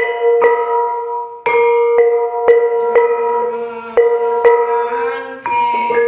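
Bonang kettle gongs struck with mallets in a steady pattern, about two ringing strikes a second, with a short pause about a second in.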